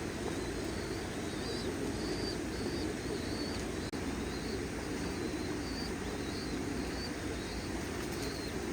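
Pigeons in a loft: short, high chirps repeating irregularly about once or twice a second over a steady low noise.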